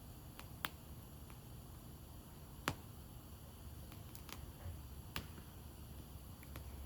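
Wood fire burning, with sharp, irregular crackles and pops from the burning wood, the loudest snap a little under three seconds in, over a faint low rumble.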